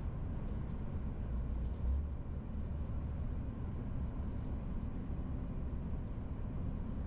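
MAN TGX 18.470 truck on the move: the steady low rumble of its straight-six diesel engine mixed with road noise, with a brief swell in the rumble about two seconds in.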